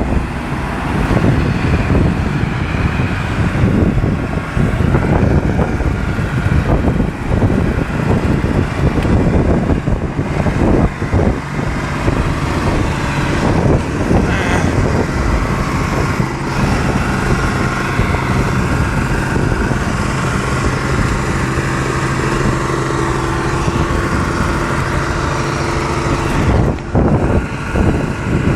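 Diesel truck engine in a runaway, racing on its own out of throttle control. It runs rough and uneven at first, then settles into a steady high-revving drone from about halfway through, with a brief dip near the end.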